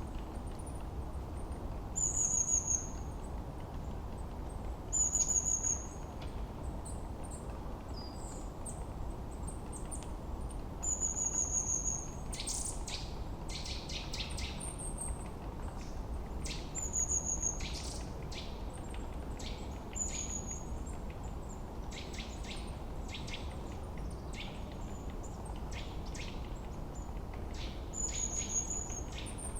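Forest birds singing: one bird repeats a short, high call that falls slightly in pitch every few seconds, and from about twelve seconds in a second bird adds quick runs of chirps. Underneath is a steady low rushing background.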